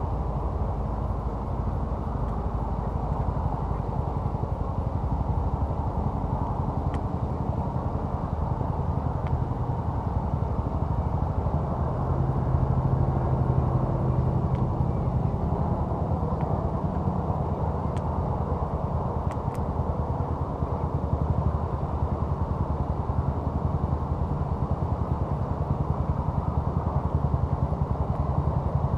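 A steady low engine rumble, with a few faint sharp clicks now and then.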